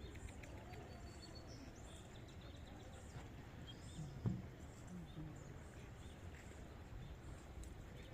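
Faint outdoor ambience: scattered bird chirps over a low steady background, with a few brief distant voice fragments and one short louder sound about four seconds in.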